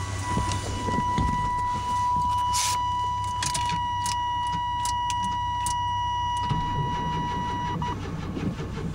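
GMC Jimmy being cranked over by its starter motor on a cold start with jump power: a steady high whine over a low churning, with scattered clicks. The whine stops about eight seconds in.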